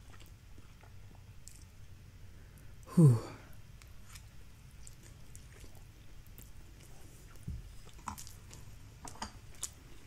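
Quiet chewing of instant fried noodles eaten with chopsticks, with scattered faint clicks and soft mouth sounds. About three seconds in, a brief, loud voice-like sound falls in pitch.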